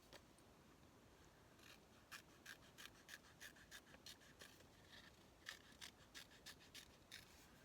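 Faint, quick scratching and rubbing strokes, several a second, from paper craft materials being handled on a table.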